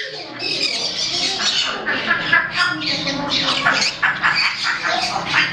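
Several pet parrots squawking and chattering at once in a continuous overlapping din of loud, high calls, with people's voices faintly underneath.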